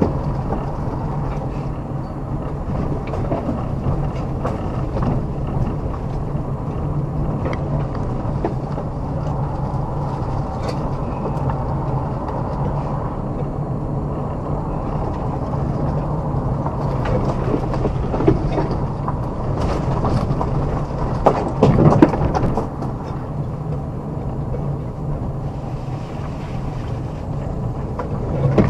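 Car driving along a rough forest road, engine and road noise running steadily, with scattered clicks and a short cluster of louder knocks about three quarters of the way through.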